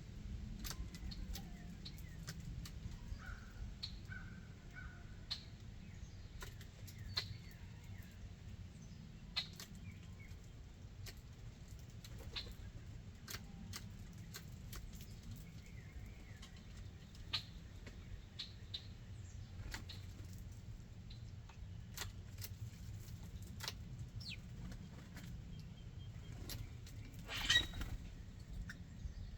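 Backyard birds foraging at a ground feeding spot: scattered sharp clicks and taps and a few short chirps, with one louder call near the end, over a steady low rumble.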